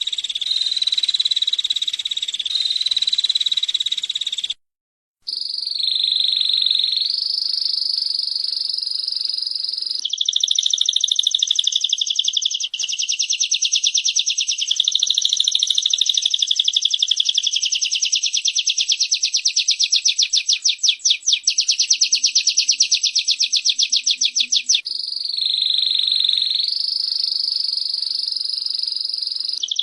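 Small songbirds, female prinia and canary, calling in fast, buzzing pulsed trills that run on almost without a break, the pattern shifting every few seconds. The sound cuts out completely for about half a second about five seconds in.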